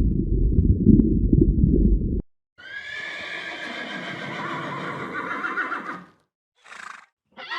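A loud, muffled low rumble that cuts off abruptly about two seconds in, then a horse's whinny lasting a few seconds. A brief further call follows, and another begins near the end.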